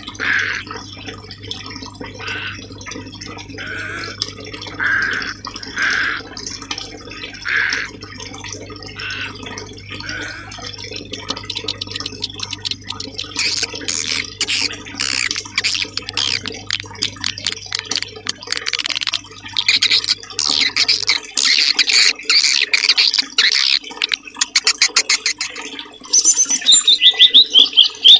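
Songbirds chirping and singing over running water, in a bird-training (masteran) recording. A simple note repeats about every second and a half at first. Then dense high chirping builds, and near the end a loud, rapid trilling song with quick rising and falling notes comes in.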